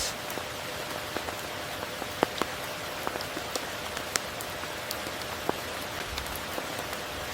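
Steady tropical rain hiss, with individual large drops ticking sharply on a close surface at irregular moments, the loudest about two seconds in.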